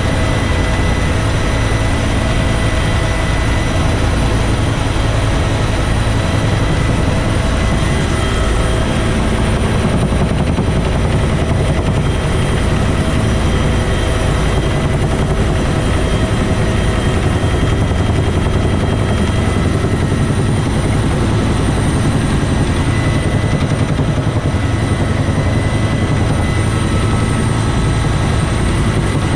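Bell UH-1 Huey helicopter running steadily: a heavy, even rotor and engine noise with a thin steady high whine from its turbine.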